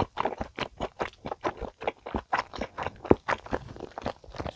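Close-miked chewing of a mouthful of spicy stir-fried chicken dakgalbi with cheese, heard as a fast, irregular run of short mouth clicks.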